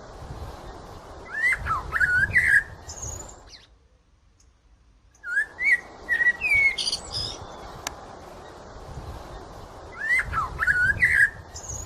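Blackbird singing: three short phrases of fluty whistled notes, each ending in high squeaky twittering, with a brief pause about four seconds in.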